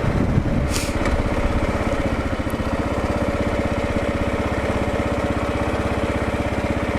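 Kawasaki KLR650's single-cylinder engine idling steadily at an even pitch, with a brief click about a second in.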